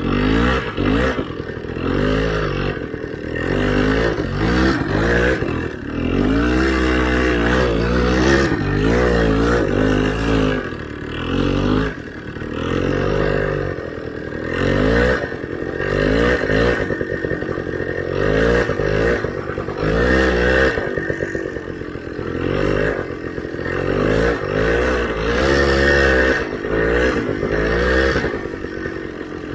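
Motorcycle engine revving up and down over and over under load as it is ridden through deep snow.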